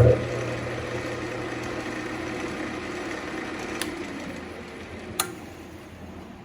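A turning tool cutting into a spinning ambrosia maple bowl blank on a Central Machinery wood lathe, over the lathe's steady hum. The cut bites in sharply at the start, runs steadily for about four seconds, then tapers off, with a couple of sharp clicks.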